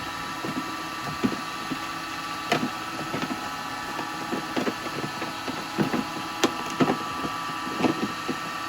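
Wood lathe running steadily with a motor hum, under irregular light knocks and clatters of objects being handled and moved about, as when rummaging for something on a bench. The knocks come thickest around six to eight seconds in.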